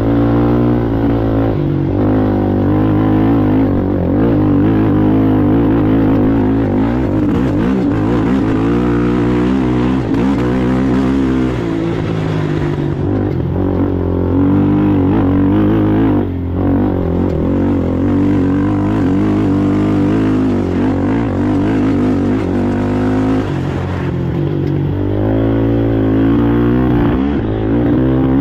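Racing ATV engine running hard, its pitch rising and falling again and again as the throttle is worked, with a brief drop in the engine note a little past halfway.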